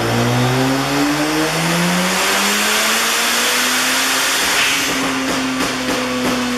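Mazda RX-7 FD's twin-turbo rotary engine revving on a dyno, its pitch rising steadily for about three seconds and then holding at a steady speed. A few sharp cracks come near the end.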